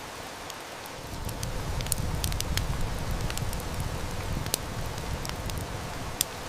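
Steady heavy rain hiss with the sharp crackles and snaps of a wood fire scattered through it. A low rumble of distant thunder swells about a second in and fades after a few seconds.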